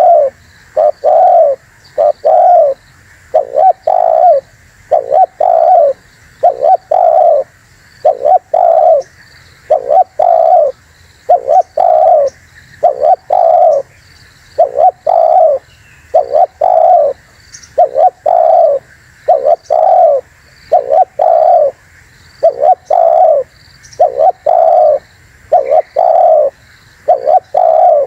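Spotted dove (tekukur) cooing over and over: low cooing notes in short phrases of two or three, separated by brief pauses. This is the song used as a lure call, which sets rival doves calling back.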